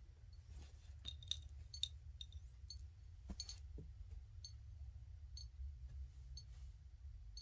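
Faint, short, high chirps from small birds, scattered irregularly and thickest in the first half, over a steady low hum.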